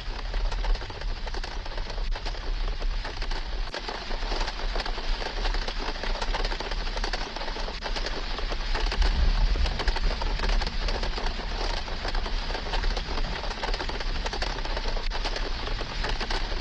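Heavy rain beating on the roof of a small camper trailer, heard from inside: a steady dense hiss of countless fine drop impacts over a low rumble.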